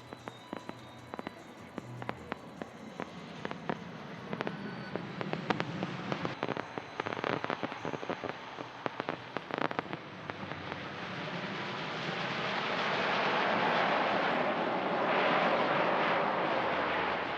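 Fireworks crackling, with dense rapid pops and snaps for about ten seconds. Then a broad rushing noise swells up and becomes the loudest part near the end.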